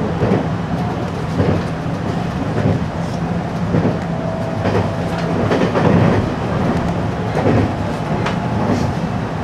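Inside a 521-series electric multiple unit's motor car while running: a steady low running hum with the wheels clicking over rail joints every second or so.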